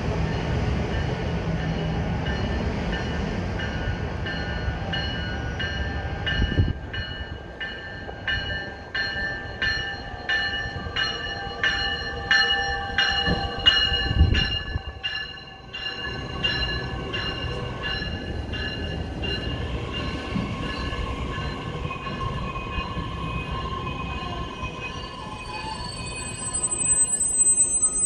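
Metra Electric bilevel electric train pulling in alongside the platform and braking to a stop, with rumbling wheels and high squealing tones. A rhythmic ringing, about one and a half strokes a second, runs through the middle as the cars pass. Two low thumps come along the way, and a sharper high squeal comes near the end as it stops.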